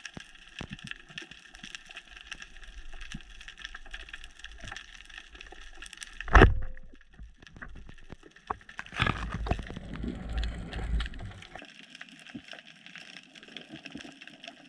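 Underwater ambience during a dive: constant fine crackling. A single sharp, loud knock comes about six seconds in, and a low rumbling stretch follows a few seconds later.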